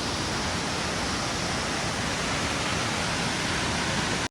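Steady rush of falling water from a tall mountain waterfall, cutting off abruptly at the end.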